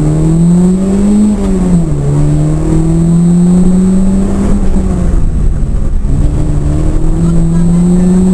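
Ford Fiesta RS1800's 1.8-litre 16-valve four-cylinder engine heard from inside the cabin under hard acceleration on track. The engine note climbs, drops about two seconds in, then climbs again, with another short dip around five seconds in before pulling up once more.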